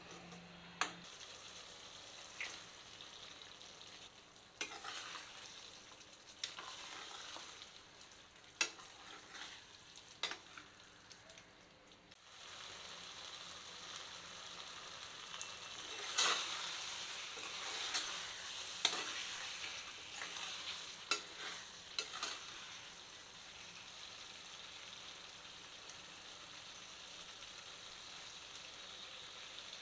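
Mutton curry sizzling in a pan as it cooks down until its water dries up, with a spatula scraping and knocking against the pan now and then. After a brief dip about twelve seconds in, the sizzling is louder and the scraping comes more often for several seconds.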